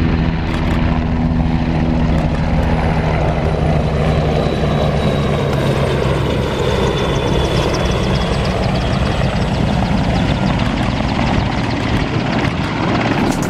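Aircraft flying over with a loud, steady engine drone, and a high whine that slowly falls in pitch through the second half.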